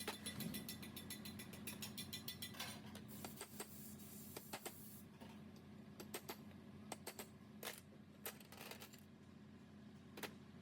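Metal tools and parts clicking during workshop repair work: a fast run of regular clicks for the first few seconds, then scattered single clicks and taps, over a steady low hum.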